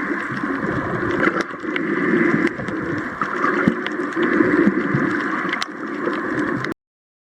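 A boat underway: a steady rushing noise with scattered faint clicks, cutting off abruptly near the end.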